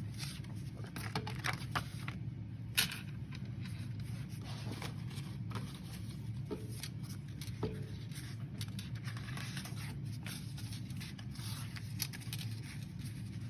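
Paper and card being handled and shuffled: soft rustles, scrapes and small taps scattered throughout, with one sharper click about three seconds in, over a steady low hum.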